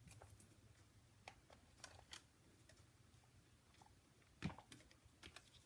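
Faint handling of paper and a pencil on a craft desk: scattered light taps and clicks, with one louder knock about four and a half seconds in.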